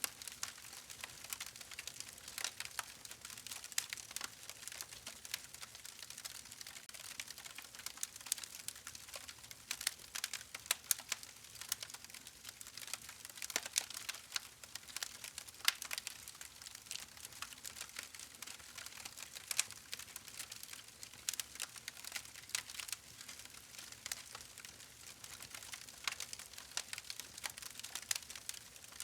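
Wood fire crackling: a dense, irregular stream of sharp pops and snaps over a soft hiss.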